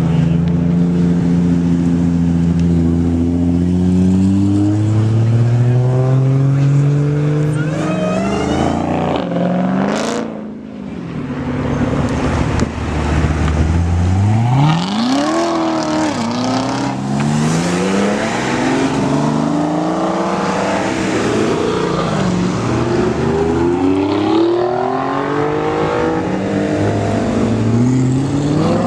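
Supercar engines accelerating hard, one after another, each pitch climbing and dropping back at every gear change. A single sharp crack sounds about ten seconds in.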